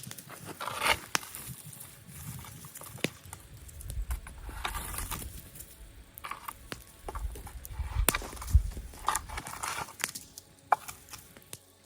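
Campfire crackling, with irregular snaps and pops of burning wood and a few low rumbles about four and eight seconds in.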